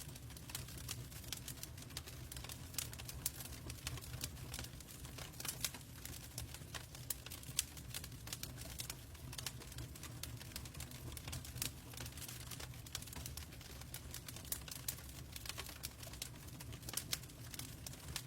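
Logs burning in a fireplace: irregular sharp crackles and pops over a steady low rumble.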